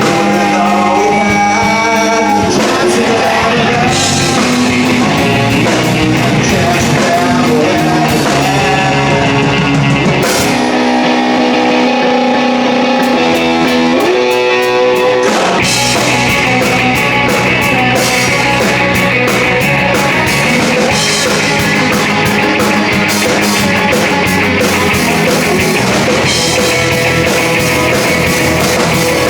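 Rock band playing, with electric guitars, drums and singing. About ten seconds in, the drums and bass drop out, leaving a few seconds of guitar that ends in a rising run. The full band comes back in about fifteen seconds in.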